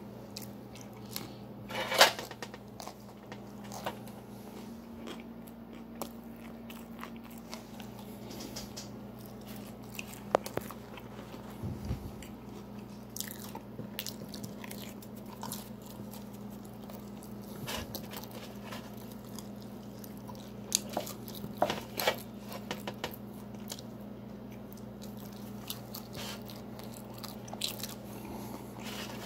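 A person chewing and biting pizza close to the microphone: scattered crunches of crust and wet mouth clicks, with a sharper click about two seconds in. A steady low hum runs underneath.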